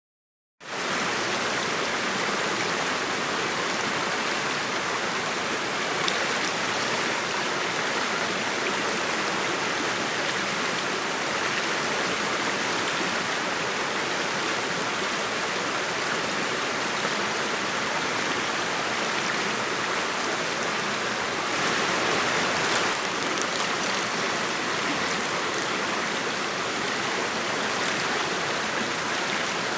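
A steady rushing noise like running water, starting abruptly just under a second in.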